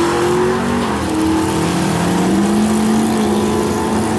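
Drag-race car's engine revving at the starting line while staged: the pitch climbs and drops a few times and holds at a raised rev between changes, without launching.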